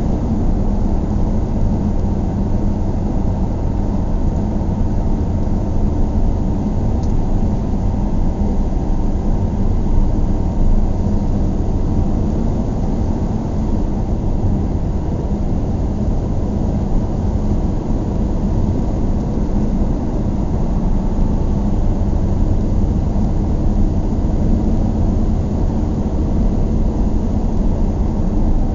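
A steady low rumble from a moving vehicle, even throughout with no clear changes.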